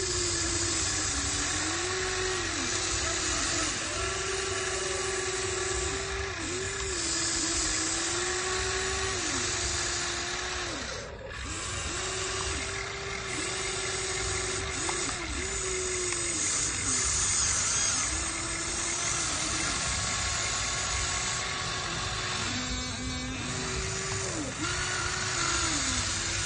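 Electric motors of a radio-controlled excavator whining in short runs as it works, the pitch rising each time a motor starts and dropping as it stops, many times over, with a steady hiss underneath.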